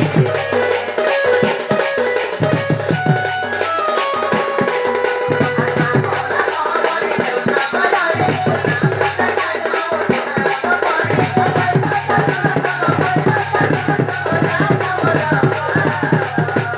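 Folk dance music: fast, steady drumming under a melody of held notes that step up and down.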